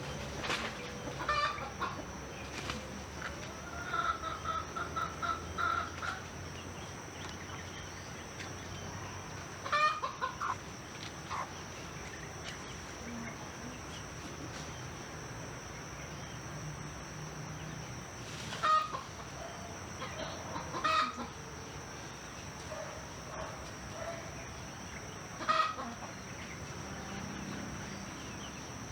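Domestic chickens clucking, with a rooster crowing, in a village morning ambience. There is a run of calls a few seconds in, then single loud calls now and then, over a steady high-pitched whine.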